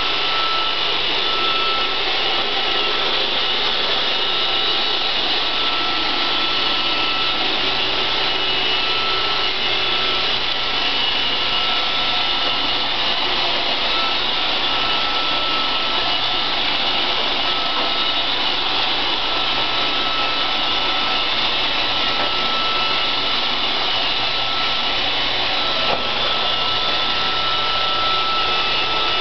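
iRobot Roomba 560 robot vacuum running steadily as it cleans the floor: a constant whirr from its vacuum motor and brushes, with a thin steady whine over it.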